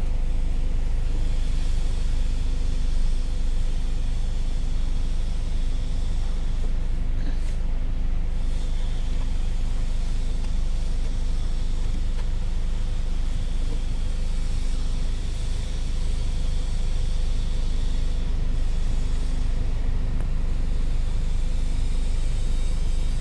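Kia Sonet idling: a steady low rumble with an even hum.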